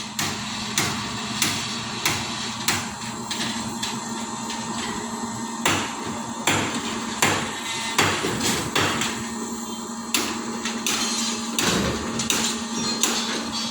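Hammer blows knocking on formwork during a concrete pour, about one to two a second at an uneven pace, over a steady hum.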